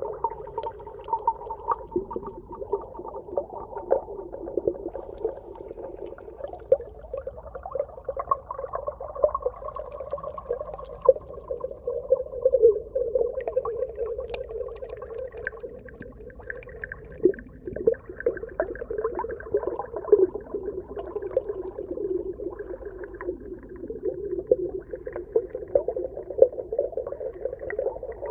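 Underwater ambience: a muffled, wavering hum with frequent short clicks and crackles scattered through it.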